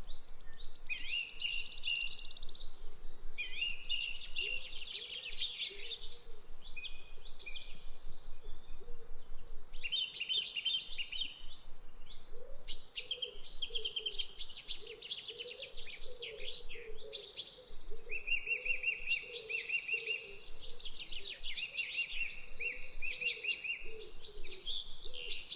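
Songbirds chirping and trilling in a dense chorus, fast trills and quick high chirps overlapping throughout, with a fainter, lower warbling call underneath for much of the time.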